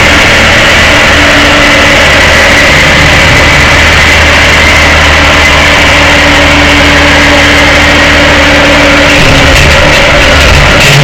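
Loud, steady engine and road noise from a tow truck, heard from its cab-mounted camera; the engine note holds steady with no clear revving.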